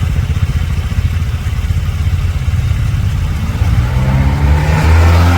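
A motor vehicle's engine running close by, a low, rapidly pulsing rumble that grows louder and more strongly pitched over the last couple of seconds.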